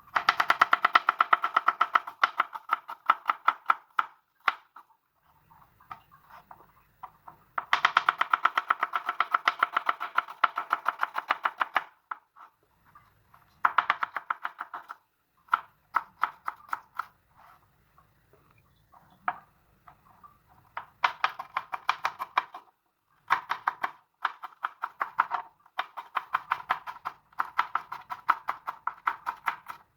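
Knife chopping rapidly on a cutting board, in quick runs of strikes several times a second, broken by short pauses.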